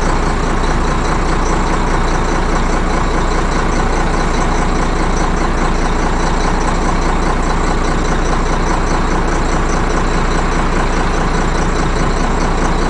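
A 1991 Ford F800 truck's six-cylinder diesel engine running steadily, heard from inside the cab.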